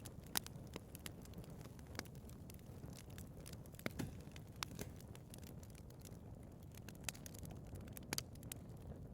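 Wood fire burning in a fireplace: a low steady flame rush with irregular sharp crackles and pops, the loudest pops about half a second in and near four seconds.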